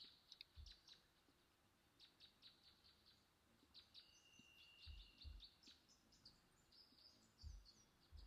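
Near silence: faint bird chirps in the background, with a few soft low thumps.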